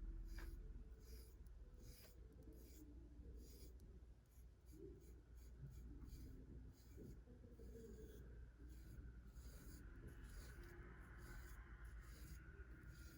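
Faint, repeated scratchy strokes of a brush being drawn through a cat's fur, about every half second.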